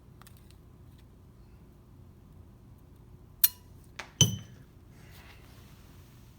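Piston ring dropped onto the floor: a sharp metallic clink with a ringing tone, then a small tick and a louder ringing clink about three-quarters of a second later as it lands and bounces.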